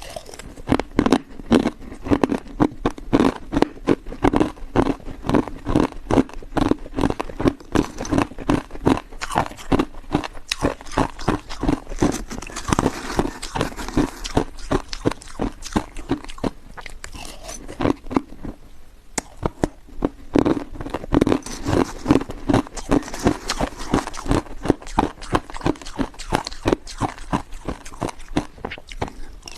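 A person biting and chewing hard ice, with rapid dense crunches several times a second and a short pause about two-thirds of the way through.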